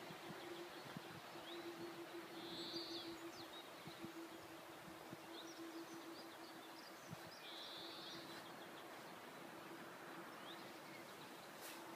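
Faint outdoor ambience with small birds chirping: two short high trills and scattered brief chirps, over a steady hum.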